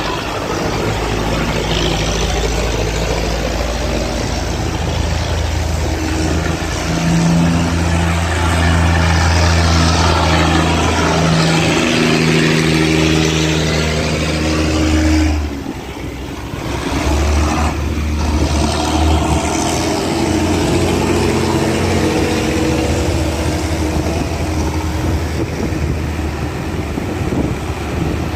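Engines of wooden cargo boats running hard as they push upstream against the current through an opened sluice gate, over a steady rushing noise. The engine note grows louder and shifts pitch partway through, drops briefly about halfway, then another engine picks up.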